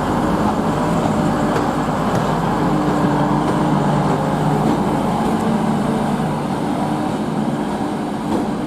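Class 185 diesel multiple unit running steadily at the platform, its diesel engine giving a constant low hum over the general station noise.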